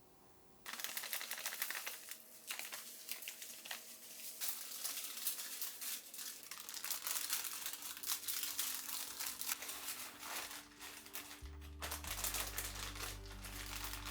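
Food frying in hot oil in a pan: a dense sizzle full of small crackles that starts suddenly about a second in. Background music with low bass notes comes in near the end.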